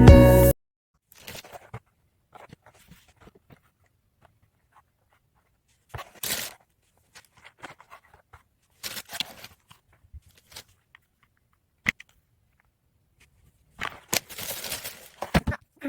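Guitar music cuts off half a second in, then intermittent faint rustling and scraping handling sounds with a few sharp ticks. They are busiest near the end.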